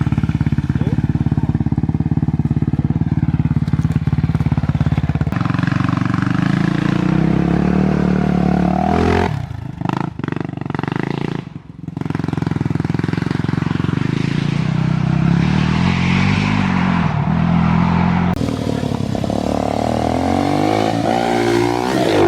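An off-road vehicle's engine running under changing throttle, its pitch shifting up and down several times. The sound drops away briefly around ten to twelve seconds in, then picks up again.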